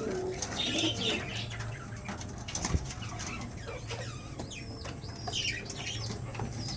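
Pet pigeons cooing, with wing flaps and short rustling clicks, and a few brief high chirps about two thirds of the way in.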